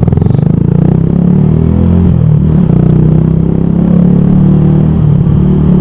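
Yamaha YZF R125's single-cylinder four-stroke engine running while being ridden; its note dips, then climbs and holds steady through the second half.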